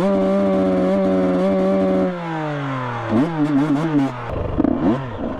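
Dirt bike engine held at steady revs, then dropping off as the throttle closes about two seconds in, with a few quick blips of revs near the end. The rider says it runs like crap.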